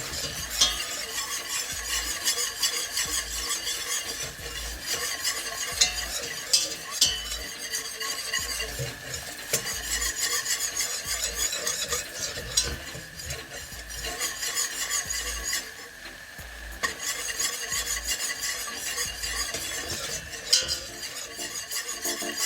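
A utensil stirring and scraping a butter-and-flour roux in a pan, with a light sizzle and now and then a sharp click of the utensil against the pan.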